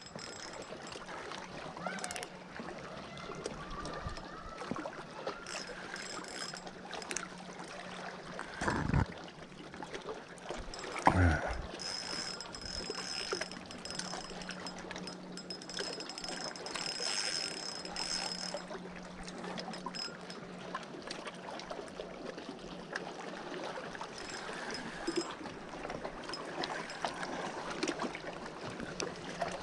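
Quiet lakeshore background of water lapping and trickling, under a faint steady hum, with brief voices about 9 and 11 seconds in.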